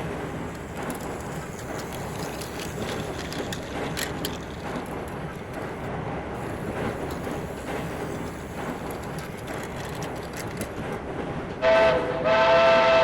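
Plarail toy C61 steam locomotive running along its plastic track, a steady rattling hum with scattered clicks. About twelve seconds in, a loud steam-locomotive whistle starts suddenly and holds.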